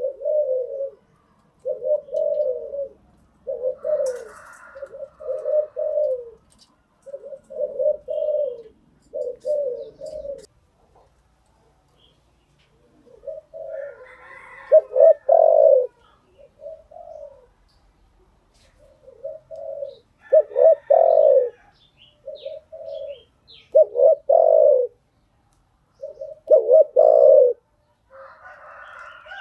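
Spotted dove cooing over and over in phrases of low, repeated notes, with short pauses between phrases. Fainter, higher-pitched chirps come in now and then.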